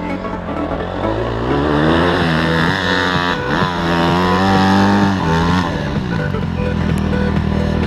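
Dirt bike engine revving: it climbs to high revs about a second in, holds there with the pitch wavering, then drops back around six seconds in to a steady lower run.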